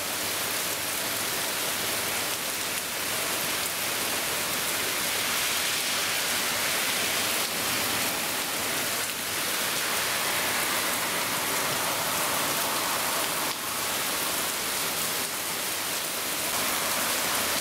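Heavy rain falling steadily on a street and lawns, an even, continuous hiss.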